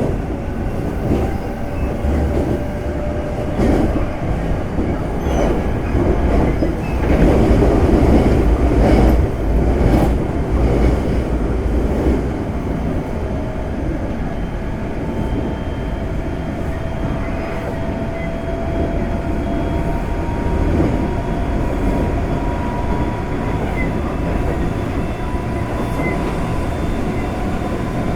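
Interior running noise of a Semboku Rapid Railway 5000 series electric train moving at speed: a steady rumble of wheels on rail, louder for a few seconds about a third of the way in, with occasional clicks over rail joints and faint steady high tones.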